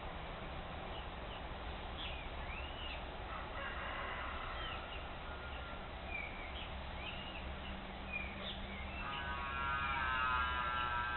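Several wild birds calling: repeated short, arched whistled notes, and near the end a harsher, buzzy call lasting about two seconds, over a steady low background hum.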